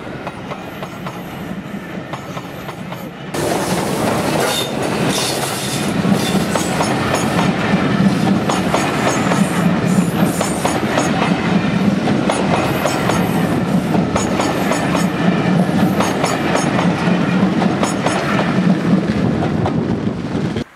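Passenger coaches of a steam-hauled train rolling past close by, their wheels clicking over the rail joints; louder from about three seconds in.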